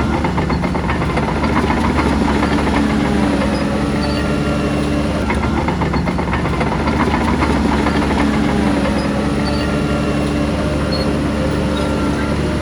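Heavy diesel earthmoving machinery running steadily under load, with a dense metallic clanking and rattling over the engine note.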